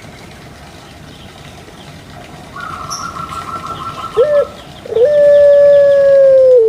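Dove cooing (manggung). A rapid trill comes in a few seconds in, then a short note, then one long, loud drawn-out coo that slowly sags in pitch.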